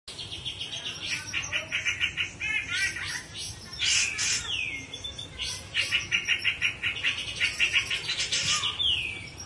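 Grey-cheeked bulbul (cucak jenggot) singing: runs of rapid repeated chirps, about eight a second, the 'ngepik', broken twice by loud whistles that fall steeply in pitch.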